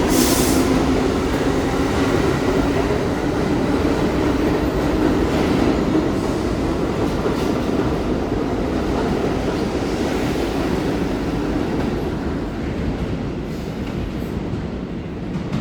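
R62 subway train running through the station, a steady loud rumble and rattle of wheels on rail, with a short hiss right at the start; the sound slowly fades near the end.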